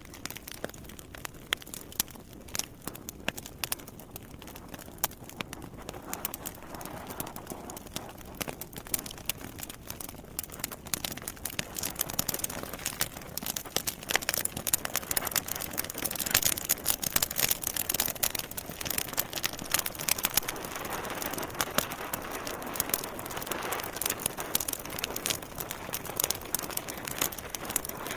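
Campfire crackling: many sharp pops and snaps over a steady hiss of flames, growing louder and busier about halfway through.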